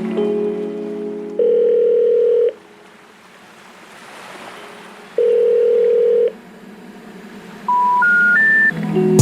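Telephone call tones: two long, steady rings about a second each, a few seconds apart, then three short beeps climbing in pitch. The rising three-note signal is the special information tone that a phone network plays when a call cannot be completed. Background music fades out near the start.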